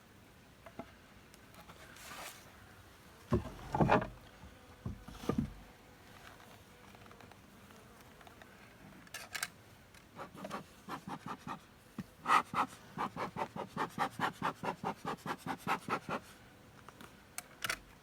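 Wood rubbing and scraping as the wooden cover of a bort, a tree-hollow beehive, is worked open: a few heavy rubbing knocks, then a quick regular run of scraping strokes, about three or four a second, near the middle to the end. Bees buzz faintly underneath.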